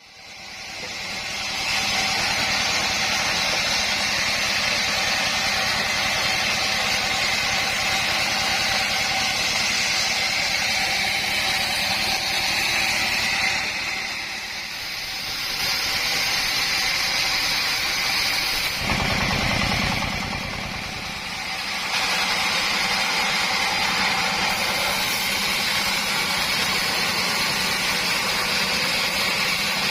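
Homemade sawmill running and sawing mahogany into boards: a steady machine noise with a faint steady whine. It fades in at the start and eases off briefly twice partway through.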